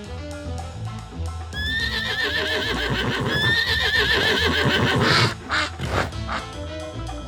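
Horse whinnying twice, two long quavering neighs, over background music, followed by a few short rough bursts.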